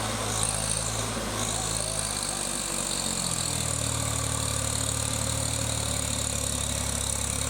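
Tractor diesel engine running steadily; about three seconds in its speed rises and then holds at the higher pitch.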